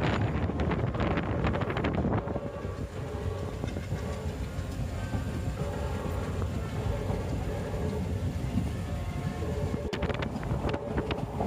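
Passenger train running along the track, a steady rumble with wind noise on the microphone.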